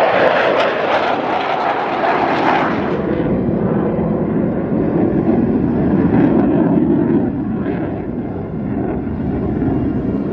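Blue Angels' F/A-18 Super Hornet jets passing: a loud hissing jet noise for about three seconds, then a deeper rumble that slowly fades as they move away.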